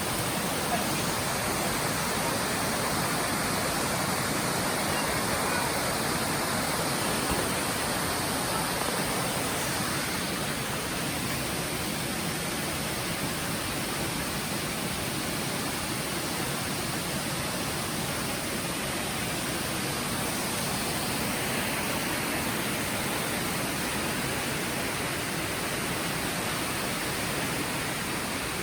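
Steady rain falling in a forest: an even, unbroken hiss.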